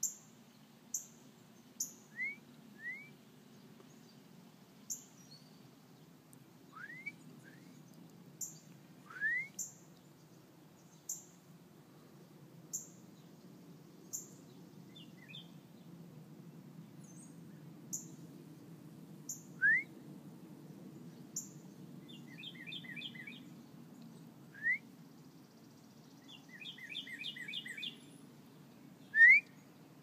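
Several songbirds calling: very high short chips repeated every second or so, short rising whistles now and then, and a rapid trill twice in the second half. A low steady background rumble runs underneath.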